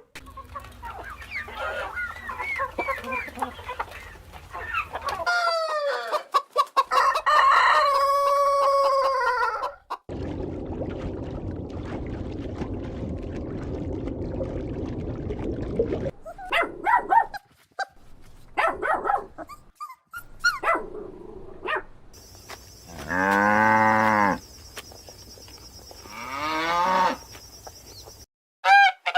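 Chickens clucking and a rooster crowing in a string of short clips. Two long crows come near the end.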